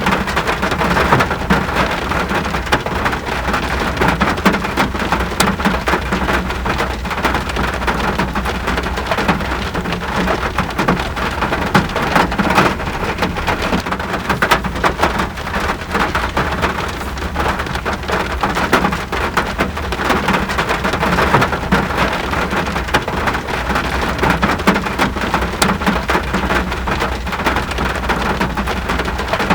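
Steady rain falling, a constant rushing hiss dotted with many small drop ticks, over a steady low rumble.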